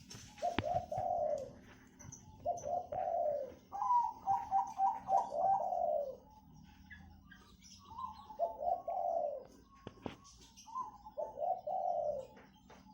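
Doves cooing in about five phrases, each a quick run of low notes ending in a longer falling coo. The longest run of notes comes about four seconds in. Faint high chirps of small birds sound behind them.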